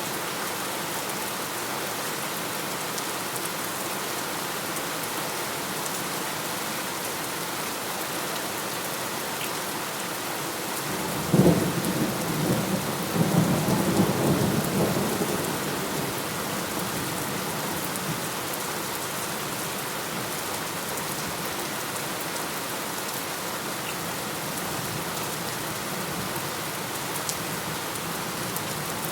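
Steady rain falling, with a sharp clap of thunder about a third of the way in that rolls on as a low rumble for several seconds before fading back into the rain.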